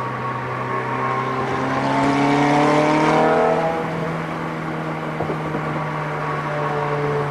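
Ferrari F430's V8 engine on the move, the car accelerating with the engine note rising and getting louder about two to three and a half seconds in, then easing back to a steady cruise. There is no drone or grind from the freshly replaced rear wheel bearing, which runs perfectly quiet.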